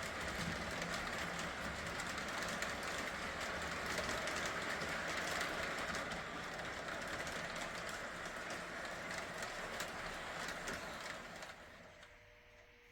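O gauge model train running on three-rail track with no sound system: a steady whir of the can motor and gears and the rattle of metal wheels over the rail joints. It fades away near the end.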